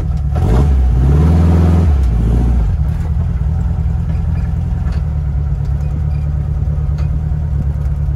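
1969 Barris Mini T's air-cooled Volkswagen flat-four engine pulling away under load: it revs up twice in the first couple of seconds, then settles to a steady running note as the car cruises.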